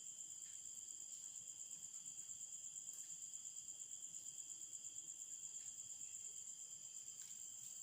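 Night insects, most likely crickets, chirring in a steady high-pitched, fast pulsing chorus.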